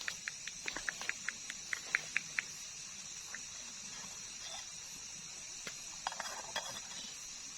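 Night insects trilling steadily at a high pitch, with a quick run of about a dozen short chirps, roughly five a second, in the first two and a half seconds.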